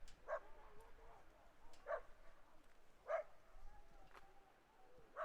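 A dog barking faintly: four short, separate barks spaced one to two seconds apart, with thin rising-and-falling whines between them.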